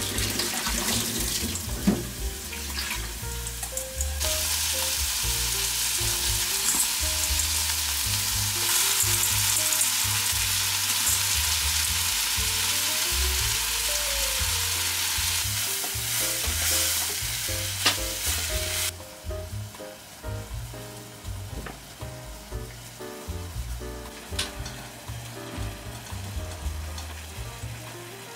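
Sliced onion and shimeji mushrooms sizzling as they fry in a pan, a loud steady hiss that stops abruptly about two-thirds of the way in. Soft background music plays underneath.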